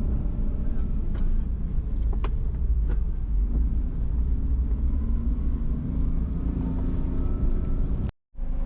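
Steady low rumble of a car driving, heard from inside, with a few faint clicks. The sound drops out completely for a moment near the end.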